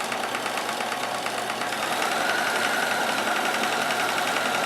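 Kenmore 158.1914 sewing machine running steadily, stitching a multi-point zigzag through a denim hem with a rapid, even needle clatter. About two seconds in it grows a little louder and a steady motor whine comes in.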